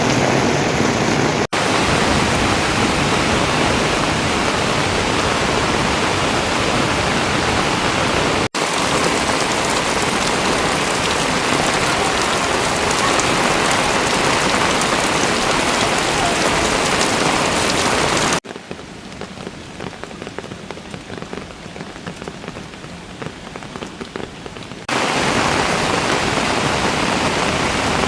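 Steady hiss of rain falling, in several spliced stretches with abrupt changes between them; in the latter half the rain is softer for about six seconds before the louder hiss returns.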